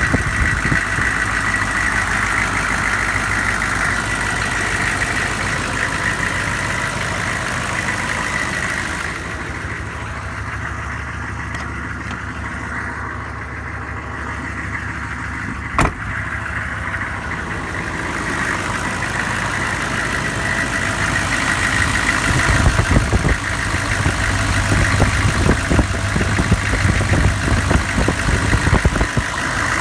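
Engine idling after a cold start. It runs steadily, goes a little quieter in the middle with a single sharp click about halfway through, then grows louder and rougher near the end.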